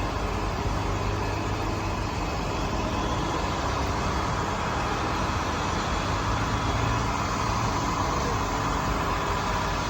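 A motor vehicle engine running steadily, with an even background noise.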